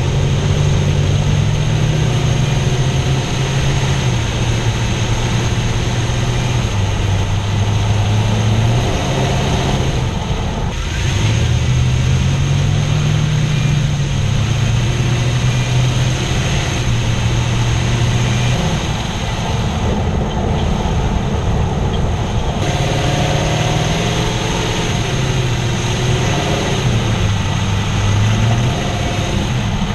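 Toyota Tundra engine running, heard up close from inside the engine bay. Its low note shifts up and down in steps every few seconds.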